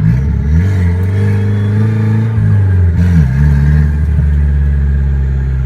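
Drift car's engine revving hard on track, its pitch climbing and dropping several times as the throttle is worked.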